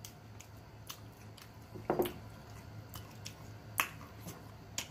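Close-up eating sounds: chewing with wet lip smacks and sharp clicks at an irregular pace, and a short hum about two seconds in.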